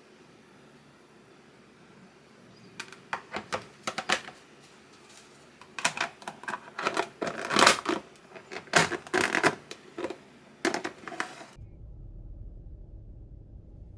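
Irregular clicks and light knocks of small hard objects being handled, clustered in quick runs for several seconds. Near the end the sound cuts to a steady low rumble.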